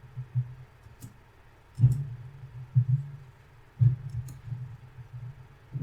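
A few sharp computer mouse clicks over a low hum that swells and fades at irregular moments.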